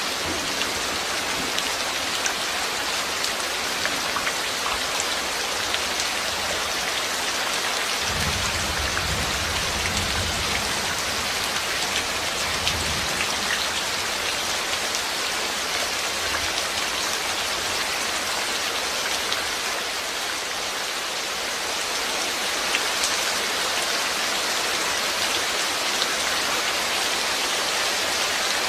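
Steady rain falling, with individual drops ticking on a surface. A low rumble comes in for a few seconds about eight seconds in.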